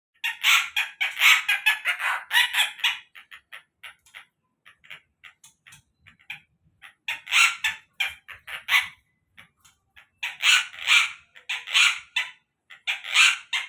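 Stork-billed kingfisher calling: loud, harsh, rapid cackling runs of notes. One long run lasts the first three seconds, and shorter bouts come about seven, ten and thirteen seconds in, with fainter single notes between them.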